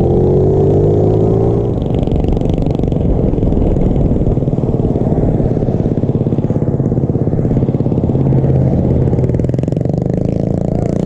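Small mini bike engine running while riding, rising in pitch over the first couple of seconds, then holding a steady, rapid putter.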